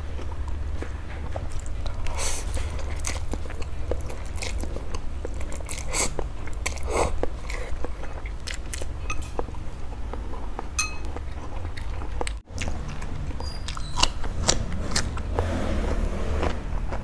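Close-miked eating sounds: a person chewing and biting mouthfuls of instant noodles, with scattered short clicks of chopsticks against a bowl, over a steady low hum.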